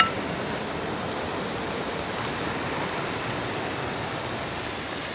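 Chicken and mushrooms sizzling steadily in an iron wok over a wood fire.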